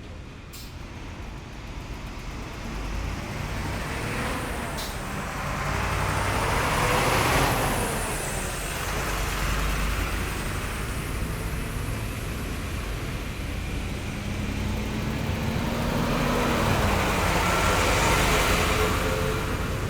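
Heavy military vehicles driving past one after another, engine and tyre noise swelling to a peak about a third of the way in and again near the end, the engine tones dropping in pitch as each goes by.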